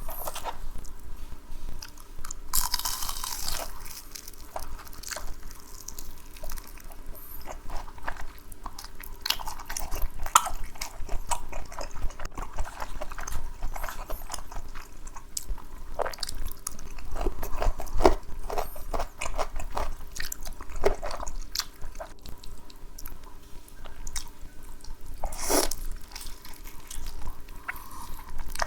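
Close-miked eating sounds: irregular biting and chewing, with crunchy bites and wet mouth smacks.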